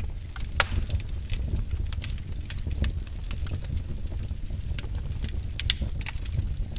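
Wood fire burning in a fireplace: frequent sharp crackles and pops over a steady low rumble of the flames, with one louder pop about half a second in.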